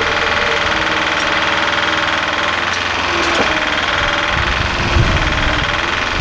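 A heavy vehicle's engine running steadily, with a deeper low rumble coming in about four seconds in.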